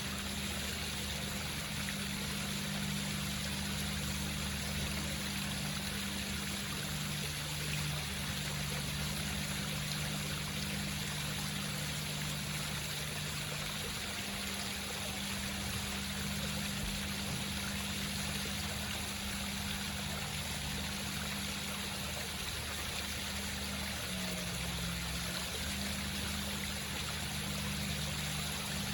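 Indoor home waterfall: water trickling and splashing down rocks in a steady flow, with a low steady hum underneath.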